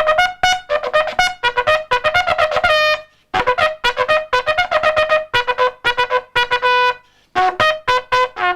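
Trumpet music: a single trumpet playing fast runs of short, detached notes, breaking off briefly about three seconds in and again about seven seconds in.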